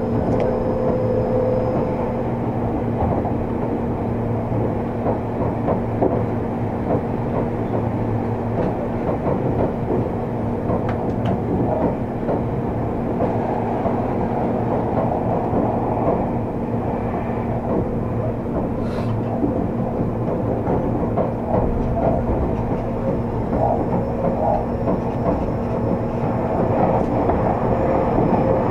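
Inside a Seibu 30000 series electric train car running at speed: a steady rumble of wheels on rail, with the car's air conditioning running underneath. A faint high whine is there near the start and returns near the end.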